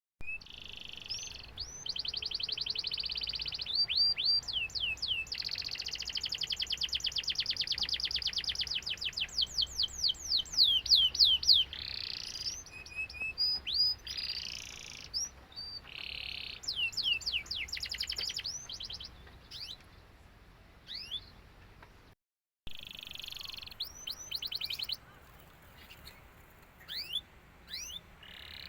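Domestic canary singing: fast trills and strings of quick rising whistled notes, dense and loud in the first half and thinning out into scattered chirps later, with a short break about two thirds of the way in.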